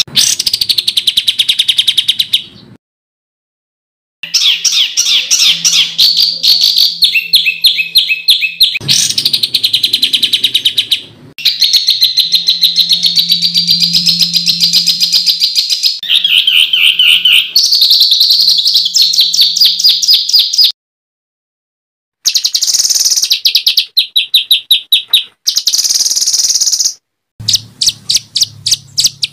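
Songbird song from a masteran training recording: loud, fast runs of harsh repeated high notes ('tembakan'), rattled off several per second. The runs are broken by two short silent cuts between spliced clips. A faint low hum sits under some passages.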